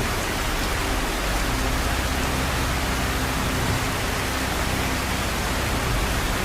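Heavy downpour: a steady, loud rushing hiss of rain that holds an even level throughout.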